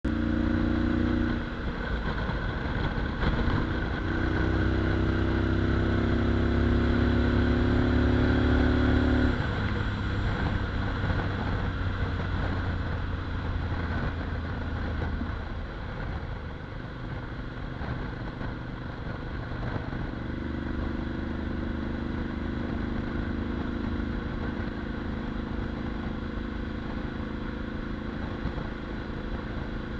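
Motorcycle engine running through a Mivv titanium aftermarket exhaust, with a deep, bassy note. It is loudest over the first nine seconds or so, drops away, and a steady note returns about twenty seconds in.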